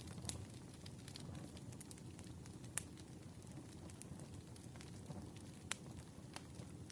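Campfire burning with a low steady rumble and scattered crackles, with a couple of sharper pops, one about three seconds in and one near the end.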